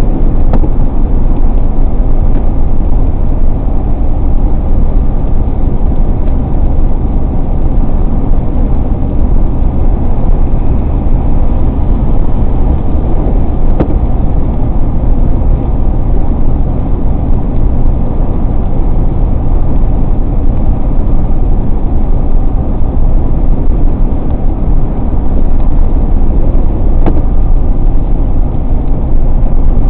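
Car driving at road speed on wet pavement, a steady dense rumble of tyre and road noise with the engine under it.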